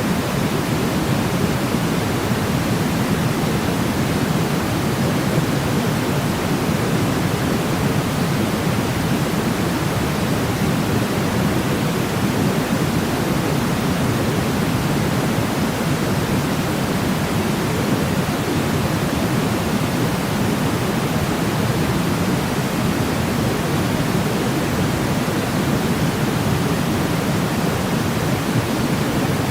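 Steady sleep noise from a white-noise track: an even, constant rush weighted toward the low end, with no change in level or character.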